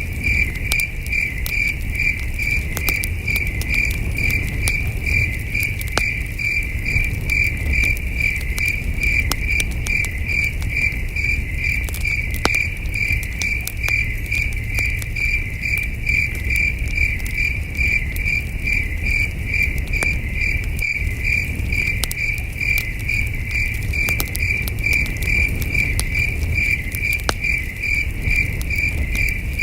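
Crickets chirping in a steady, even pulse, with a campfire crackling underneath: scattered sharp pops over a low steady rumble.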